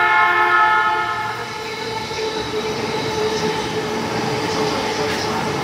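E231-series electric commuter train sounding its horn, a steady multi-tone blast that fades out about a second and a half in, then running along the platform with a steady motor whine and rail noise.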